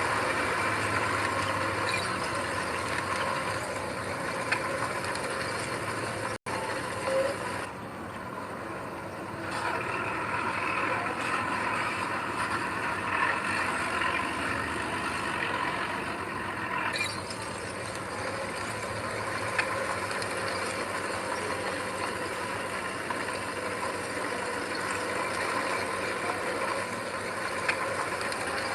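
Heavy diesel earthmoving machinery running steadily, with mechanical rattling. The sound breaks off for an instant about six seconds in.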